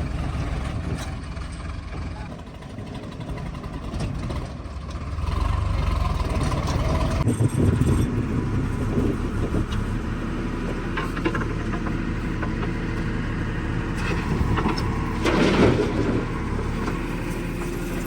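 Diesel engine of a JCB 3DX backhoe loader running while it works. It gets louder about five seconds in, and there is a short, louder clatter about fifteen seconds in.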